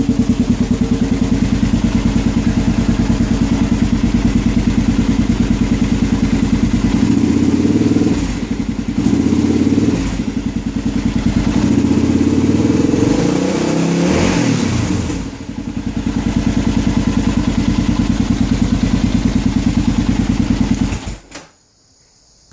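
Kawasaki KLR650 Tengai single-cylinder motorcycle engine running with an even pulse, just brought back to life; its pitch shifts a few times in the middle, and it is shut off abruptly near the end.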